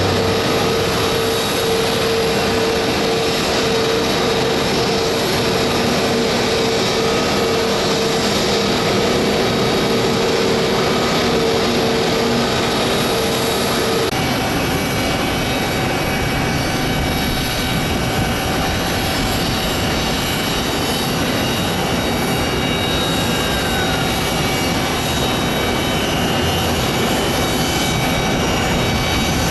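Embraer 175 regional jet's engines running steadily with a strong held tone during push-back. About halfway through this cuts to the different, steady sound of a Metroliner's twin turboprops on landing approach.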